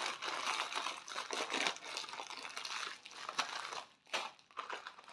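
Plastic packaging crinkling and rustling as a bag is opened and handled. The rustling thins out to a few faint crackles about four seconds in.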